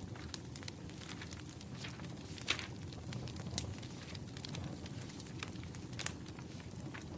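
Wood fire burning, with a low steady rumble and irregular sharp crackles and pops from the burning logs, a few louder snaps among them.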